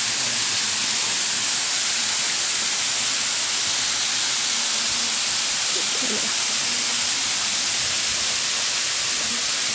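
Steady rushing of flowing water from a stream near a waterfall, an even hiss with no change in level.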